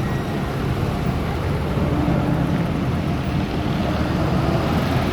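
Steady low rumble of wind buffeting the microphone, mixed with road noise, while riding a bicycle.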